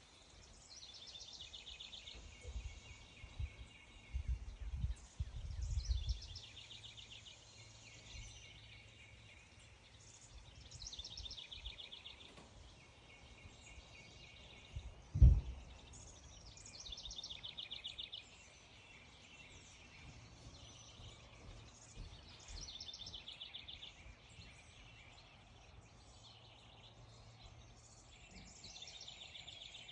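A songbird singing the same rapid, trilled phrase over and over, roughly every five seconds. Low rumbling thumps come in the first few seconds, and one sharp, loud thump about halfway through.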